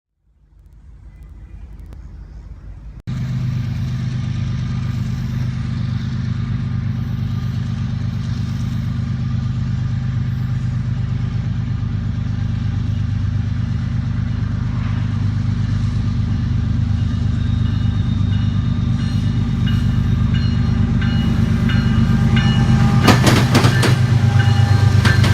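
Union Pacific diesel freight locomotives approaching with their engines running, a steady low drone that jumps up about three seconds in and then grows slowly louder as the train nears. A few sharp clatters come near the end.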